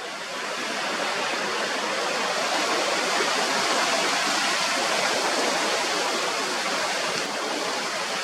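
A strong gust of wind blowing on the microphone: a steady rushing hiss that builds over the first second and holds.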